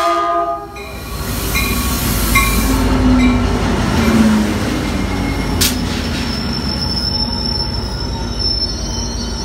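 Metrolink commuter train led by an EMD F59PHI diesel locomotive pulling into a station: its horn cuts off in the first second, then the locomotive's engine rumbles past close by. The bilevel coaches follow, with short high squeals and a sharp click, and a thin steady wheel squeal in the second half as the train slows to a stop.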